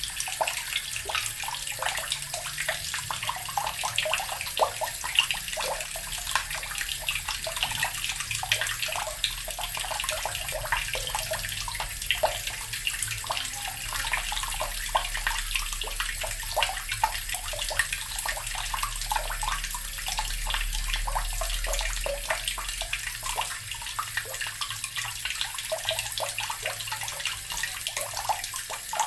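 Water running steadily from a tap and splashing into a basin below, with small irregular splashes throughout.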